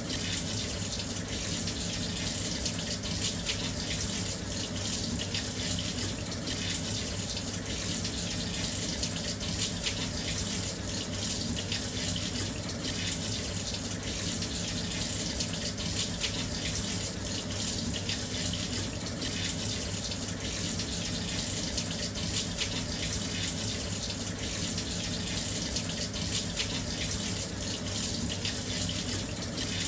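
Washing machine filling with water: a steady, unbroken rush of water pouring into the drum, with a faint low hum beneath.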